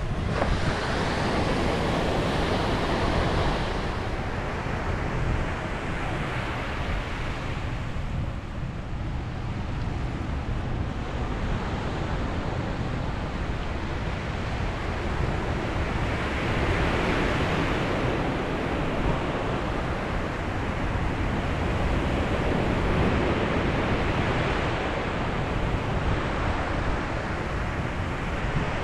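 Ocean waves breaking and washing on a beach, the surf swelling and easing every several seconds over a steady low rumble, with wind buffeting the microphone.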